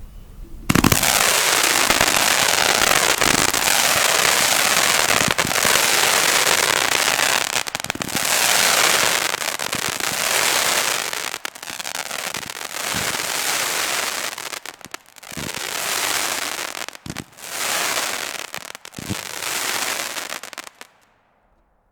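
A 200-gram consumer firework cake firing its tubes in quick succession: a dense, continuous stream of shots and crackling that starts about a second in. It surges and eases in waves with short lulls, then stops about a second before the end.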